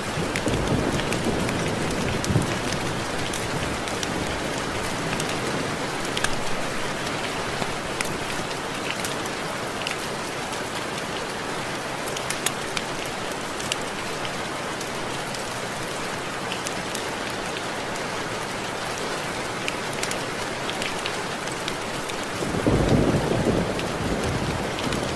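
Steady rain with drops ticking against window glass. A low rumble of thunder swells near the start and again, louder, near the end.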